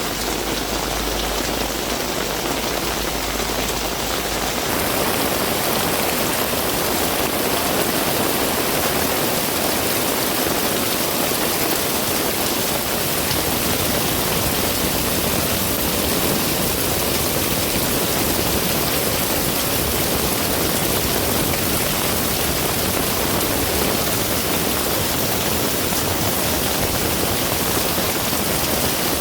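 Heavy rain pouring steadily, a dense, even hiss of downpour. A low rumble underneath drops away about five seconds in.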